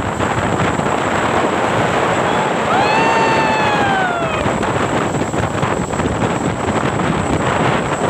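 Steady wind buffeting the microphone over road and vehicle noise. About three seconds in, a single pitched note with overtones rises quickly, then slides slowly down over about a second and a half.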